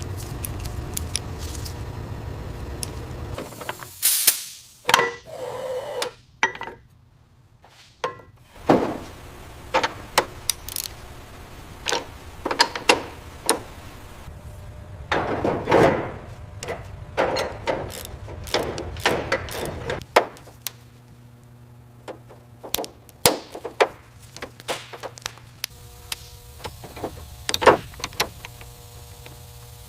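Irregular sharp knocks, clicks and clanks, like tools and parts being handled in a workshop, with a low steady hum in the first few seconds and a longer, louder clatter about halfway through.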